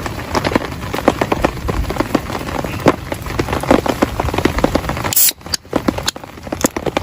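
Raindrops tapping irregularly on a surface, many sharp ticks a second, with a brief louder hiss about five seconds in.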